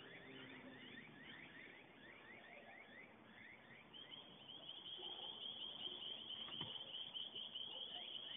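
Faint bird chirping: short high chirps repeated a few times a second, giving way about halfway through to a steady high trill, with a single light click near the end.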